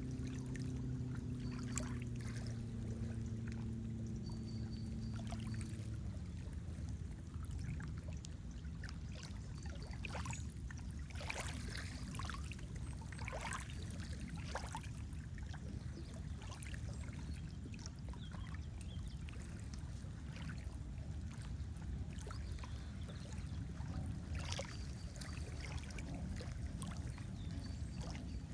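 Lake water lapping and splashing in irregular small slaps. A low, steady motor hum from a boat runs under it and fades out about six seconds in.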